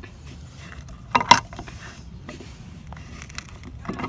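Handling knocks and clicks as a wooden guide board is shifted and set in place: two sharp knocks about a second in, then a few lighter clicks and rattles.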